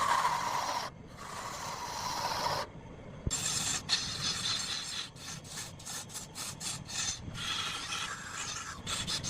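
A turning tool cutting into a spinning rosewood log on a lathe, making a rasping shaving noise. The cuts come in stretches that stop sharply and start again, and break into rapid short chattering strokes in the middle.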